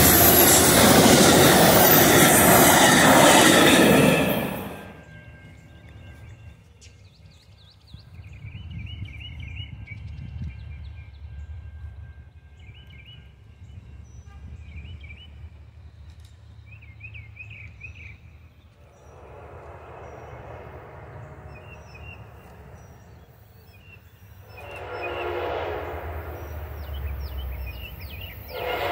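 An Amtrak passenger train rushing past at speed, cut off sharply about four and a half seconds in. A quieter low rumble follows, and near the end an approaching locomotive blows its horn, growing louder.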